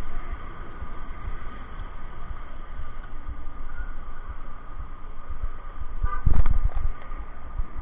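Steady outdoor road noise with low rumbling on the microphone, and a short vehicle horn toot about six seconds in.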